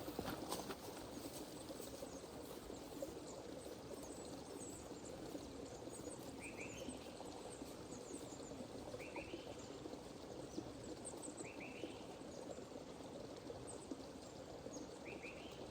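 Forest birds calling: one bird repeats a short rising call four times, a few seconds apart, with fainter high chirps around it, over a steady low rushing background.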